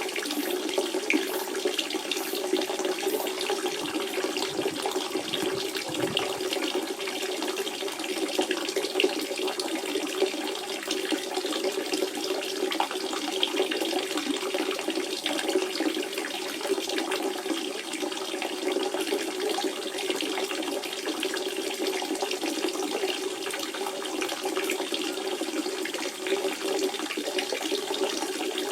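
Natural spring water running and splashing in a steady flow, a constant trickling rush with a strong low gurgle.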